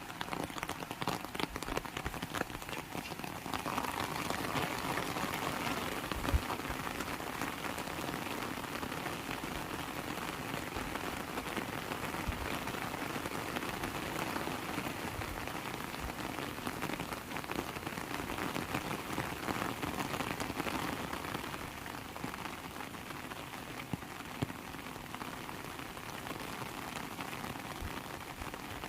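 Heavy rain falling steadily, a dense patter of countless drops with now and then a heavier drop knocking. It eases slightly over the last few seconds.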